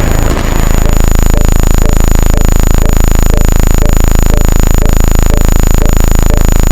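Loud, harsh, steady electronic buzz with a thin high whine running through it and faint small blips about twice a second.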